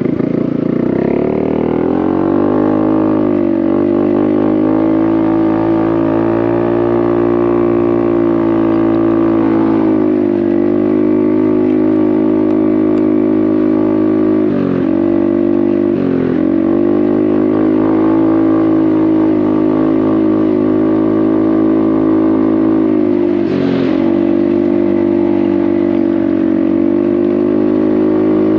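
Honda Navi's 109cc single-cylinder engine running through a Vance & Hines exhaust, rising in pitch as it accelerates and then holding a steady cruising note. The throttle is briefly eased off and reopened three times, twice midway and once near the end.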